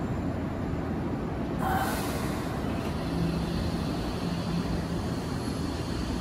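Tobu 70000-series electric commuter train starting to pull away from the platform, with a low rumble. A short hiss of air comes about two seconds in, and a low steady hum sounds from about three to five seconds in.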